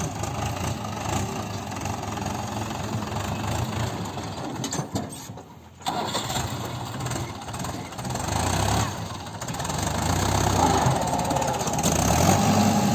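Heavy diesel engine running, with a short gap about five and a half seconds in and the engine growing louder over the last few seconds.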